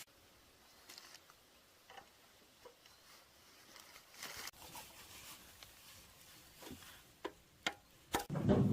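Scattered light clicks and taps from hand work on small engine parts and tools, with a brief rustle about four seconds in and a few sharper clicks near the end, followed by a louder low thud just before the end.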